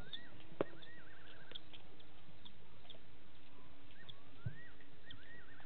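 A night bird's whistled call, heard twice: a rising-and-falling note followed by a quick wavering run of notes. Two short sharp knocks come through, the first about half a second in.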